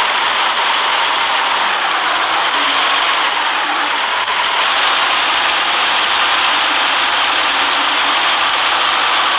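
City bus in motion: steady road and running noise, with a faint whine that slowly rises in pitch.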